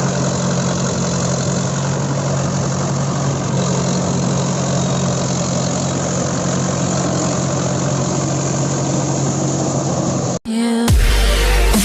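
Mahindra 575 DI tractor's four-cylinder diesel engine running at a steady speed. About ten seconds in it cuts off abruptly, and loud electronic dance music with a heavy beat starts.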